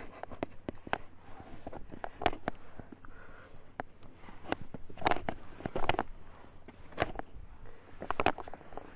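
Irregular clicks, knocks and scuffs of hiking boots and hands on rock during a scramble up a boulder slope, with a few sharper knocks along the way.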